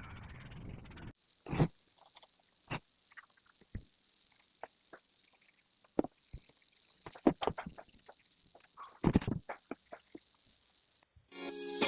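A steady, high-pitched insect chorus starts abruptly about a second in and runs on, with a few scattered light knocks and taps.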